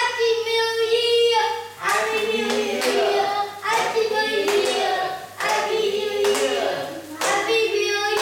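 Children singing with long held notes, with hand clapping.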